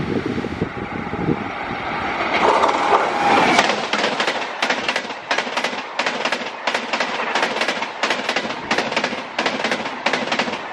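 LHB double-decker express coaches passing close at high speed: a fast, uneven clatter of wheels striking rail joints, several sharp clicks a second over a steady rushing noise. Before that, for the first few seconds, the rumble of an approaching electric train with wind on the microphone.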